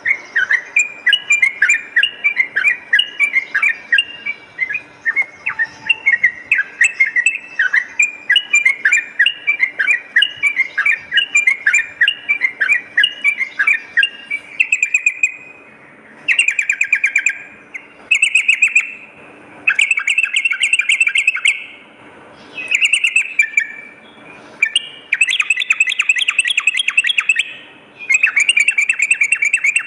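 Yellow-vented bulbul (trucukan) singing: for the first half a quick, continuous string of short bubbly chirps, then rapid rattling trills in bursts of one to two seconds with short pauses between them.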